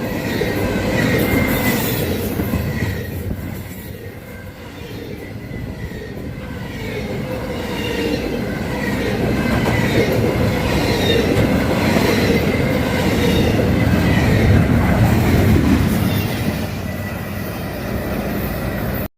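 A CSX freight train's cars rolling past with thin, wavering wheel squeals over a steady rumble of wheels on rail. The sound dips about four seconds in, then builds again.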